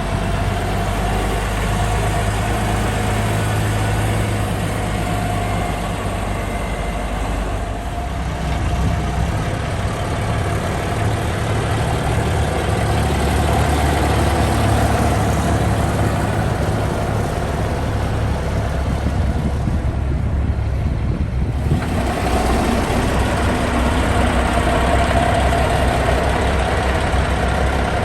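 Heavy diesel truck engines running at low revs, with a steady low engine note. The sound changes abruptly twice, about a third of the way in and again about three quarters of the way in.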